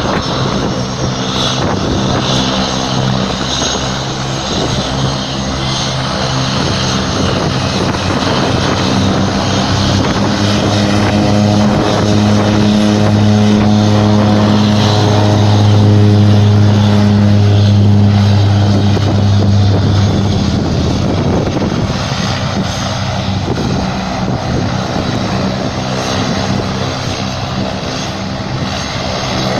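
Single-engine propeller plane's engine and propeller running with a steady drone, growing louder toward the middle and fading away after about twenty seconds in.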